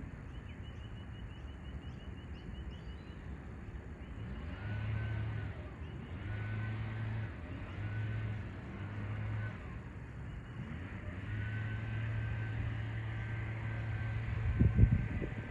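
An engine running steadily in several short stretches of about a second each, then in a longer run of a few seconds, with a single thump near the end.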